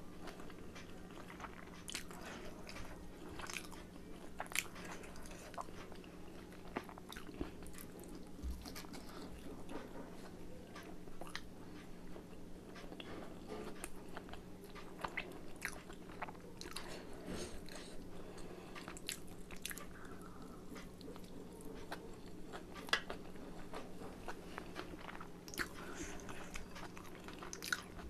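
Close-up eating sounds of someone chewing steamed chicken momos, with many small sharp mouth clicks and smacks throughout. A steady low hum runs underneath.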